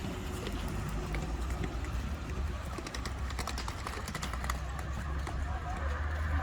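City street ambience: a steady low rumble with scattered light clicks and ticks.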